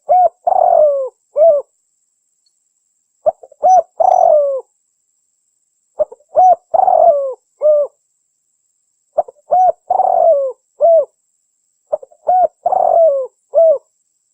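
Spotted dove singing: five phrases about three seconds apart, each a short run of coos with one longer coo that falls in pitch.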